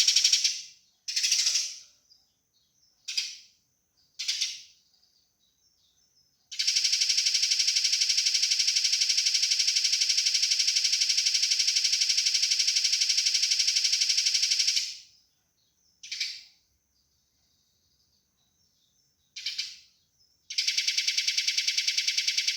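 Eurasian tree sparrow fighting calls: a long, very fast rattling chatter lasting about eight seconds, with short single chirps spaced out before and after it, and another fast chatter starting near the end.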